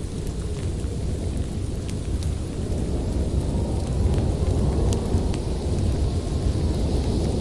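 Storm wind blowing in a deep, steady rumble, with scattered sharp crackles and pops from a wood fire in the fireplace.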